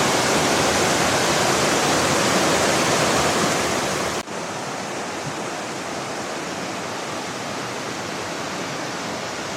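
Small woodland river cascading over boulders in a waterfall: a steady, full rush of falling water. About four seconds in it cuts abruptly to a somewhat quieter, equally steady rush.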